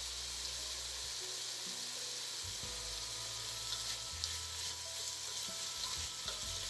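Marinated chicken and onion frying in hot oil in a pan, a steady sizzle, with a couple of faint clicks.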